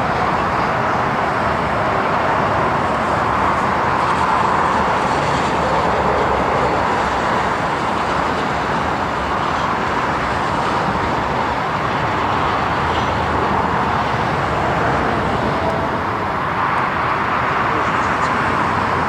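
Four-engine Airbus A340 jet engines at takeoff thrust: a loud, steady rush of noise that swells and eases slightly.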